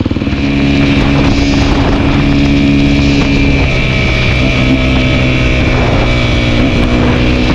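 Dirt bike engine running steadily as the bike rides off. The engine note eases briefly about halfway through.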